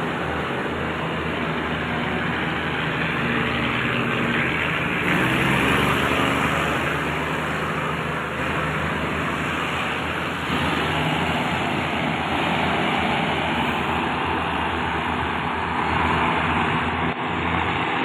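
RHN diesel railcar set running, a steady low engine note under broad running noise, as the train moves through the station.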